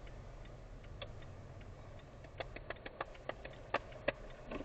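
A car's cabin with a steady low engine hum and a run of sharp, irregular clicks, most of them between about two and a half and four seconds in.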